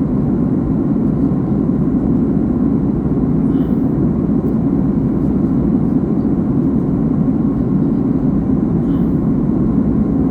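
Steady rumble of an airliner in flight, heard inside the passenger cabin: a constant drone of engines and rushing air.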